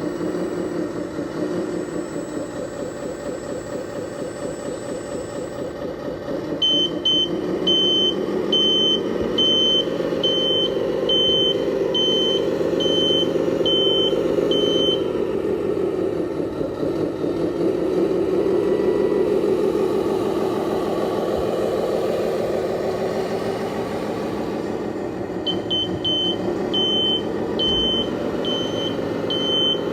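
Engine sound of a 1:14-scale RC Scania 8x8 dump truck, running steadily with slight rises and falls in pitch. A high reversing beeper sounds in a fast repeating pattern from about seven seconds in until about fifteen seconds, and again from about twenty-five seconds in.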